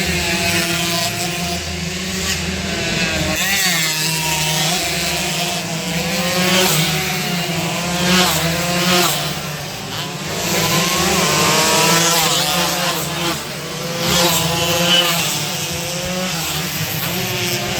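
Two-stroke 116cc underbone racing motorcycles revving hard, their buzzing engine notes rising and falling again and again as bikes pass.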